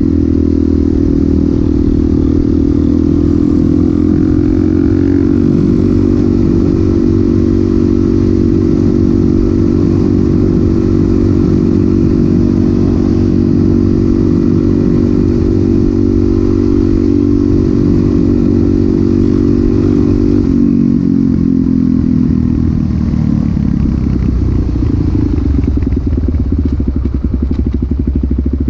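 Suzuki DR-Z400SM's single-cylinder four-stroke engine through a Yoshimura exhaust, running at steady revs that rise a little about four seconds in. About two-thirds of the way through, the throttle closes and the revs fall away to a slow, pulsing beat.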